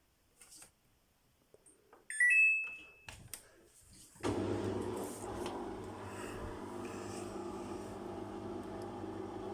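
Samsung washing machine: a few faint clicks, then a short electronic beep from the control panel about two seconds in. About four seconds in the machine starts a steady hum.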